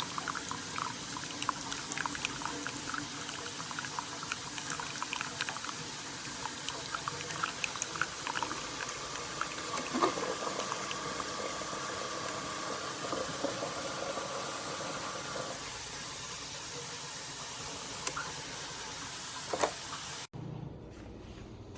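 Keurig K-Slim single-serve coffee maker brewing: a steady hiss and sputter of hot water with many small pops and crackles as coffee streams into the cup. It cuts off abruptly near the end, giving way to a low hum.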